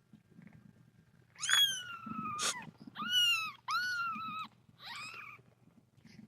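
A very young kitten mewing four times in high, shrill cries. The first cry is long and falls in pitch, the next two are shorter, and the last is fainter. A brief scratchy noise cuts in during the first cry.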